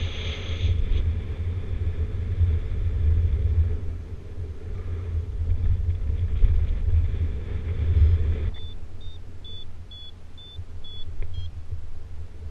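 Wind buffeting the microphone in flight, a heavy low rumble that drops away about two-thirds of the way in. Then a paraglider variometer gives a quick run of short high beeps, stepping slightly in pitch, the vario's climb signal in lift.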